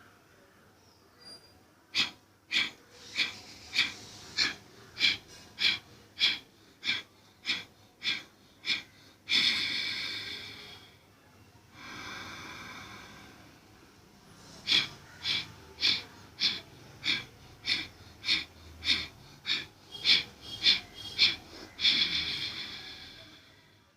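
Kapalabhati breathing through the nose, one nostril at a time: a run of about a dozen sharp, forceful exhalations, roughly one every 0.6 seconds, ends in a longer breath. A second run of the same follows, ending in another long breath near the end.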